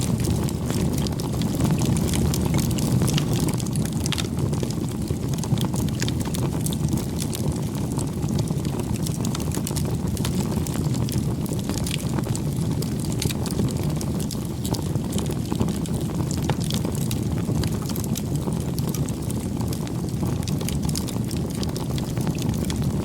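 Campfire burning: a steady low rush of flames with frequent small sharp crackles and pops from the wood.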